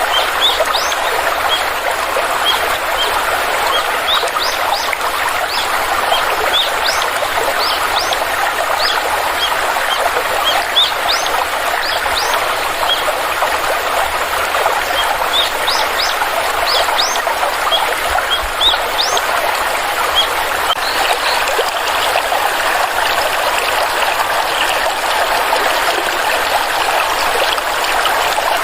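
Stream water trickling and flowing steadily, with small birds giving many short, high chirps over it, frequent at first and thinning out after about twenty seconds.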